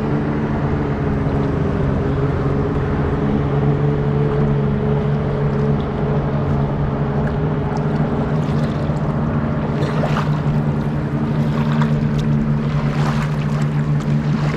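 Boat motor running at a steady speed, a constant hum over a wash of water and wind noise, with a few short splashy knocks in the second half.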